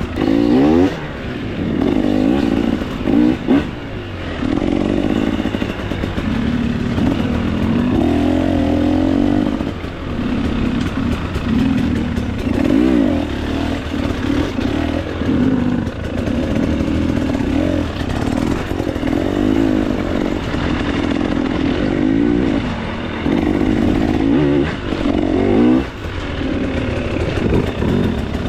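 Single-cylinder two-stroke engine of a 2024 KTM 300 XC-W dirt bike on trail, revving up and down again and again as the throttle is opened and rolled off, with brief lulls between bursts.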